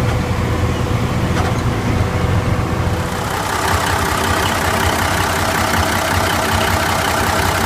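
1971 AM General diesel dump truck engine running steadily; its sound changes about three seconds in, with the low steady note giving way to a rougher, noisier running sound.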